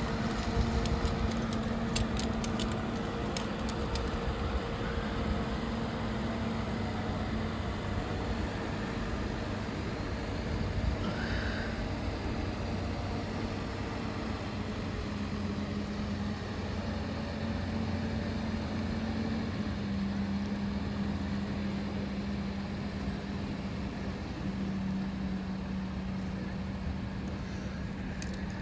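Engine of a mobile crane running steadily at a constant speed, its pitch stepping slightly a couple of times. A few light clicks about two to four seconds in.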